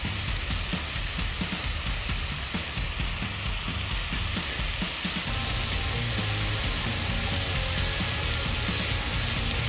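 Samgyeopsal pork belly frying, a steady sizzling hiss, with a low steady hum underneath from about halfway.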